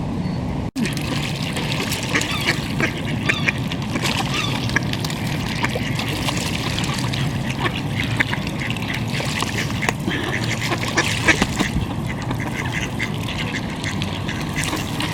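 A crowd of ducks quacking continuously, many calls overlapping, as waterfowl gather to be fed. The sound cuts out for an instant just under a second in.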